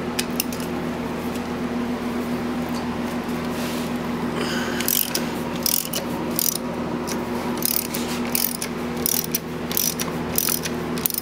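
Ratchet wrench clicking as it backs out loose 12 mm bolts, in bursts of quick clicks from about five seconds in, over a steady low hum.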